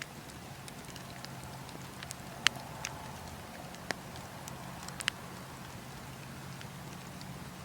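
Campfire burning: a steady hiss with scattered crackles and a few sharp pops, the loudest about two and a half seconds in and another pair around five seconds in.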